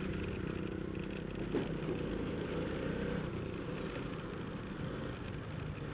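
Honda Supra X motorcycle engine running steadily at low speed, with the noise of riding along.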